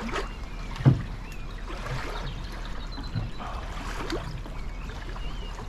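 Steady rush of running water, with one sharp knock about a second in and a few faint high chirps.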